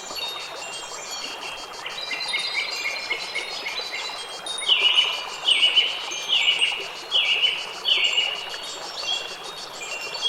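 Wind chimes ringing with many overlapping tones over a steady hiss. About halfway through, a bird gives five loud calls in a row, roughly one every 0.8 s.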